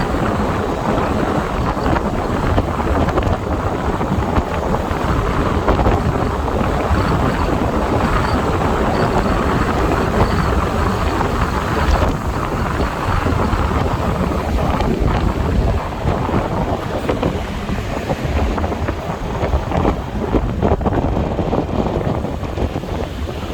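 Wind buffeting the microphone over the drone of a motorbike and road traffic while riding, easing a little near the end.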